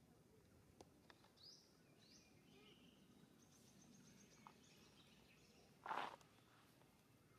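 Quiet outdoor ambience with a few short, quickly rising bird chirps in the first two seconds and faint high twittering after. About six seconds in there is one brief, louder noise.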